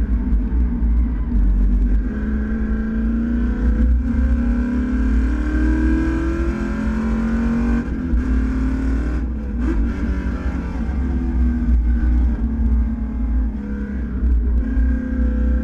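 Race car engine running hard, its pitch climbing repeatedly as it accelerates through the gears, falling away around the middle and climbing again near the end, over a heavy low rumble.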